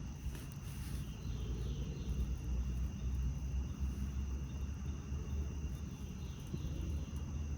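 Steady high-pitched chirring of insects, over a low, gusting rumble of wind on the microphone.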